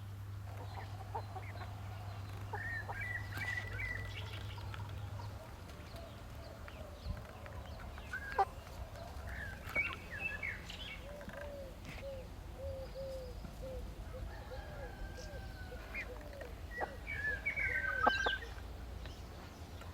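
Domestic hens clucking, with a run of short, low clucks about twice a second through the second half, and higher bird chirps scattered over them.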